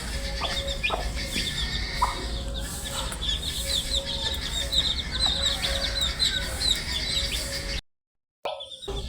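A brood of baby chicks peeping together: a dense chorus of short, high, falling chirps over a steady low hum. The sound cuts out completely for about half a second near the end, then resumes.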